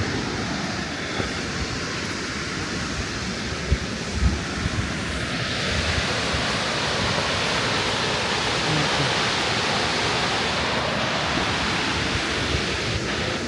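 Steady rushing roar of a waterfall, growing fuller about halfway through. A few low thumps about four seconds in.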